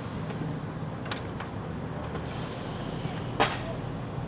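Class 68 diesel locomotive standing at idle, barely audible: a low steady hum, with a few faint clicks and a short knock about three and a half seconds in.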